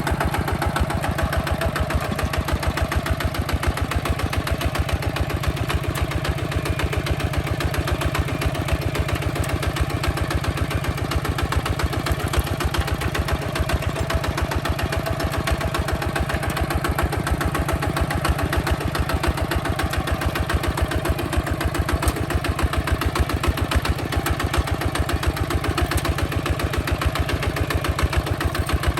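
Diesel engine of a Hinota HG Gold 155 DI tractor running steadily with an even, rapid firing beat.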